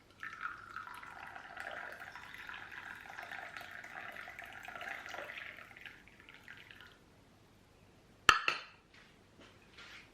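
Liquid being poured steadily for about six seconds, then a single sharp clink that rings briefly, followed by a few faint small knocks.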